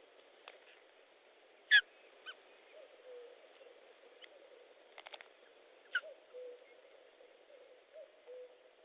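A bird hooting faintly in a repeated two-note call, a short higher note then a longer lower one, three times over. A sharp, high falling chirp a little under two seconds in is the loudest sound, with a weaker one near six seconds, and a quick run of four ticks comes about five seconds in.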